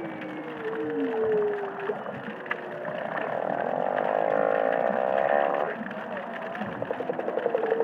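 Humpback whale song recorded underwater: a moaning tone that slides down in pitch, then a long buzzy call about three seconds in, and rapid pulsed notes near the end, over a steady hiss of coral reef noise.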